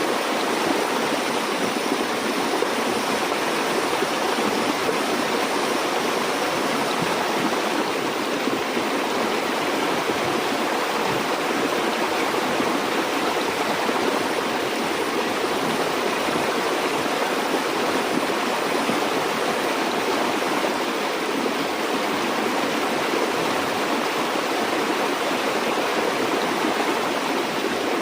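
Stream water flowing steadily over rocks, a continuous rushing and babbling without pause or change.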